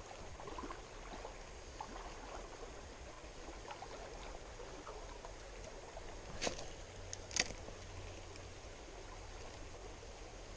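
Shallow creek water running steadily over rocks. Two sharp clicks, about a second apart, come about two thirds of the way through.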